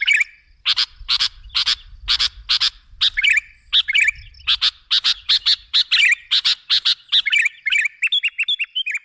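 Sooty-headed bulbul (kutilang) lure call: a quick series of short, sharp chattering calls, about two a second, mixed with brief warbling notes, turning into faster chirps near the end.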